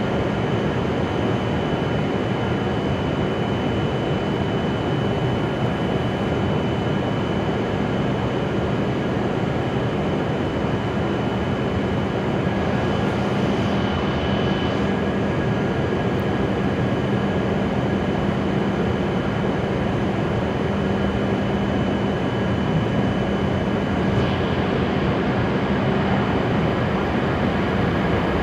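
Steady hum and rumble of an E7/W7-series Shinkansen train at the platform, with a few constant whining tones over it.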